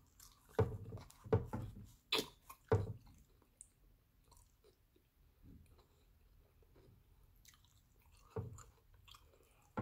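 Close-up mouth sounds of biting into and chewing a tuna sub on a soft roll. The chewing is loudest in the first three seconds, then goes on more quietly, with one more brief louder bite near the end.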